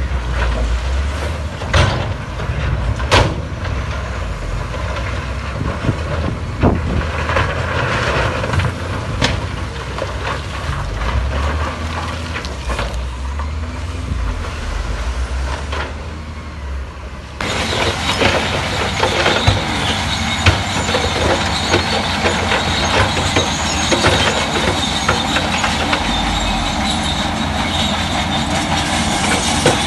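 Heavy crawler bulldozer at work: its diesel engine runs low and steady with sharp metal clanks. A little over halfway through the sound changes abruptly to a dense clatter and grinding, heard as steel tracks and rock.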